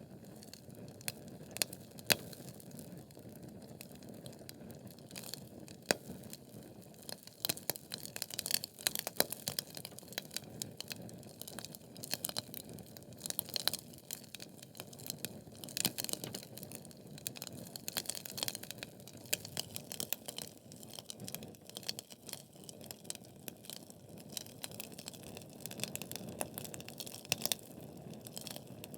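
Wood fire burning in a fireplace: logs crackling and popping with many sharp snaps over a steady low rushing of the flames, the crackling thickest in the middle of the stretch.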